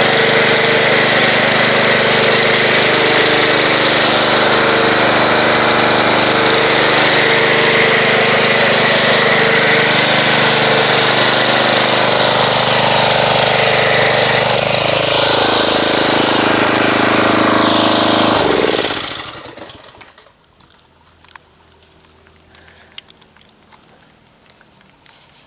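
Pressure washer running steadily while spraying car-wash foam through a foam cannon, with the hiss of the spray over the motor. About fifteen seconds in, the motor drops in pitch and it stops at about nineteen seconds.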